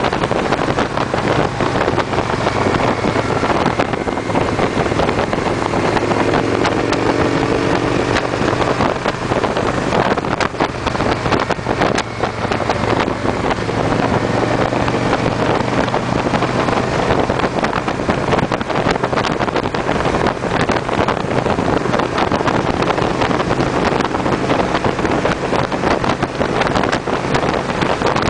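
Victory V-twin motorcycle engines cruising in a group: a steady low engine drone under heavy wind noise on the microphone, with a higher engine note rising a few seconds in.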